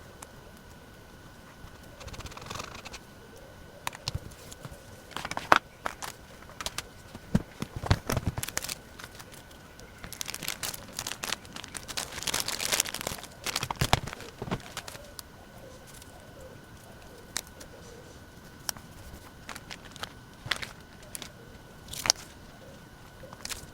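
Paper and sticker materials being handled on a desk: crinkling and rustling, with scattered small taps and clicks, and a busier stretch of rustling about halfway through.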